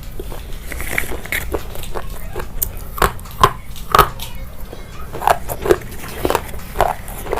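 Crunchy chewing and biting: irregular sharp crunches and clicks, several a second, with the loudest bites about three and four seconds in.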